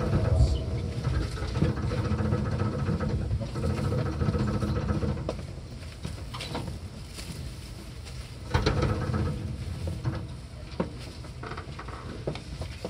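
Seibu 4000 series electric train at low speed, heard aboard near its circuit breaker: a low running rumble with faint steady tones drops away about five seconds in as the train slows to a stop. Scattered sharp clicks follow, with a short burst of rumble about eight and a half seconds in.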